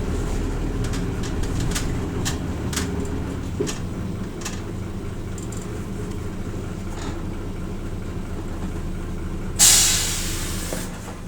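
Hino Rainbow RJ route bus's diesel engine running low, heard from inside the bus, with scattered short rattles. About nine and a half seconds in comes a sudden loud hiss of compressed air being released, fading over the next second or so.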